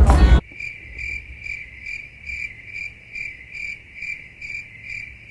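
Cricket chirping: an even high-pitched trill pulsing about three times a second, starting abruptly about half a second in.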